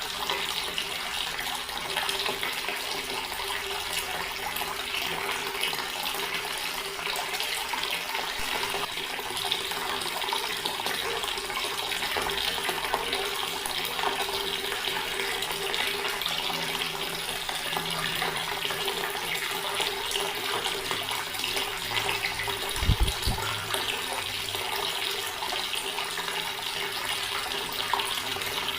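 Water running steadily from a tap and splashing into a stone basin, with a faint low hum under it and one brief low thump near the end.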